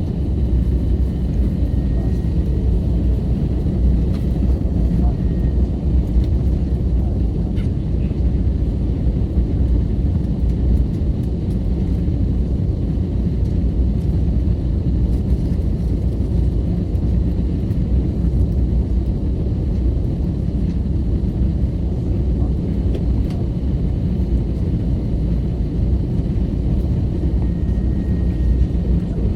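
Steady low rumble of cabin noise inside an Airbus A321neo airliner, holding an even level throughout, with faint thin tones above it.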